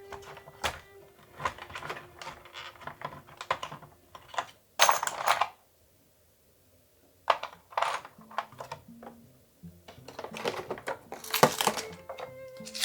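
Small hard kit parts being handled: irregular clicks, taps and light rattles, with a short rustling burst about five seconds in and a quick run of clicks near the end. Soft background music under it.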